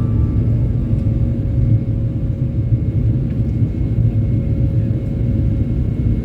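Steady low rumble of a moving vehicle heard from inside its cabin, with a faint steady hum over it.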